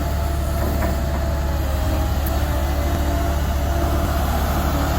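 Large engine running steadily with a deep, even hum.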